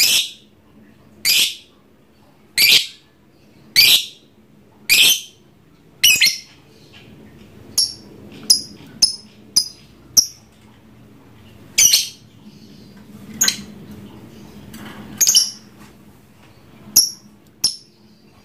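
A lovebird giving shrill calls, one every second or so over the first six seconds, then shorter, higher chirps in quick succession and a few more calls spaced irregularly.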